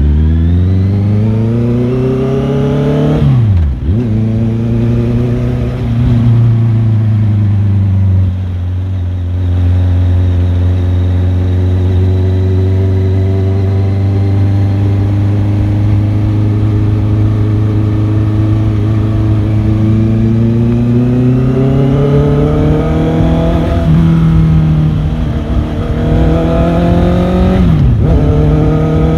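Motorcycle engine under way, accelerating with its pitch rising, then holding a steady pitch for a long stretch before climbing again. The pitch drops sharply and picks up again about four seconds in and again near the end, as at gear changes.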